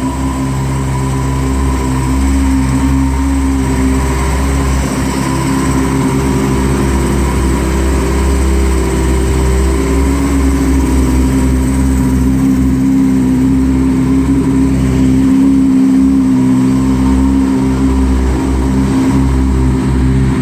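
Yamaha Apex snowmobile's four-stroke, four-cylinder engine running steadily.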